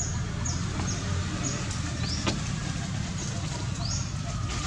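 Short, high rising chirps repeat every half second or so over a steady low rumble, with one sharp click about two seconds in.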